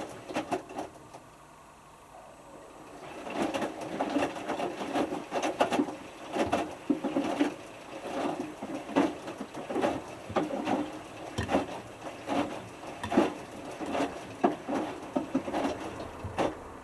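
Hotpoint Futura HF8B593 washing machine in its whites main wash, the drum tumbling with water sloshing and the small load flopping over inside. It goes quiet about a second in, as the drum pauses before reversing, and starts tumbling again near three seconds.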